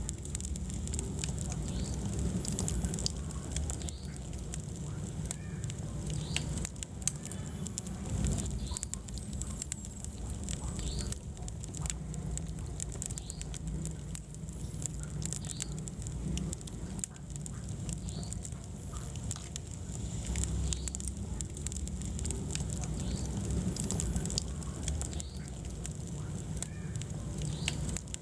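Wood fire burning in a fireplace, crackling with frequent sharp snaps and pops over a steady low rumble of the flames.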